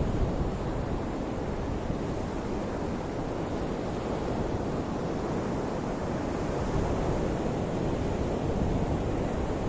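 Ocean waves washing onto the shore in a steady rush, with wind buffeting the microphone.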